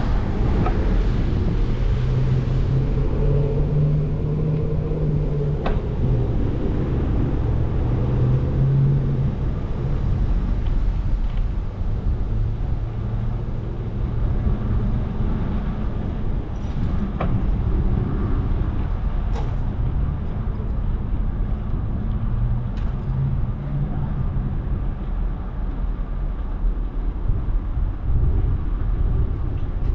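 Steady low rumble of street traffic and road noise heard from a moving bicycle, with a vehicle engine humming nearby, its pitch wavering, and a few light clicks.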